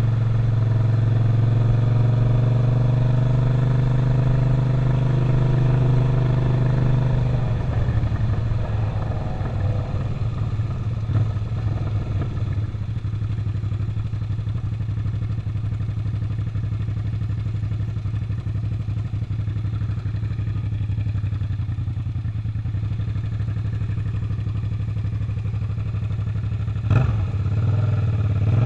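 Suzuki SV650's 90-degree V-twin engine running at a steady speed for about seven seconds, then dropping back to a lower, rougher beat as the bike slows or idles. Near the end comes a sharp knock, and the engine note starts to rise as it pulls away again.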